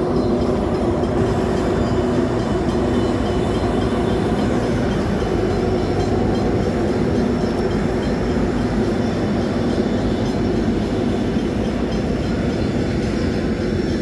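Diesel freight locomotives passing close by, their engines droning. The drone gives way to the steady rolling of flat wagons loaded with steel coils.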